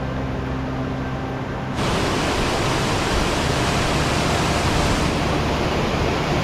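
Rushing water of a mountain valley stream and falls, a loud steady rush that cuts in suddenly about two seconds in and stops abruptly at the end. Before it, a quieter rushing noise with low steady tones under it.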